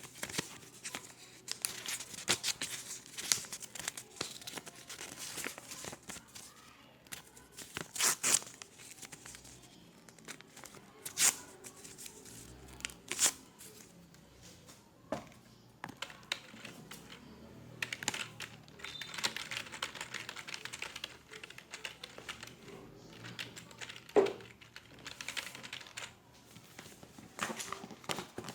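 Office ambience of desk work: irregular clicks and taps with short rustling, scraping bursts, the loudest a few sharp clacks scattered through.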